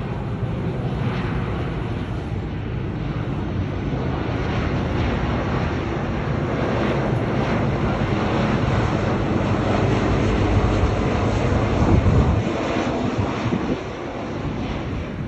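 Boeing 737-700 jet engines running steadily at high power with a heavy low rumble. About twelve seconds in the deepest part of the rumble drops away suddenly and the sound eases.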